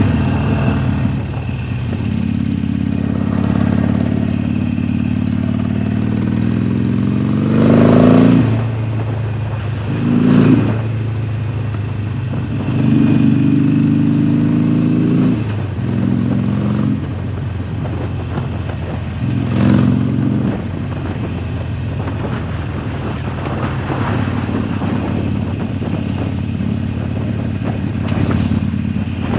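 A 2019 Harley-Davidson Sportster Forty-Eight's V-twin running through its Jekill & Hyde flap exhaust while riding. The revs climb steeply about eight seconds in, then drop back. Shorter rises in revs come near ten and twenty seconds in, and the bike runs steadily in between and afterwards.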